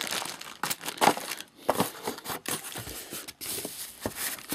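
Packaging being handled during unboxing: irregular crinkling and rustling of wrapping, with scattered light crackles and knocks.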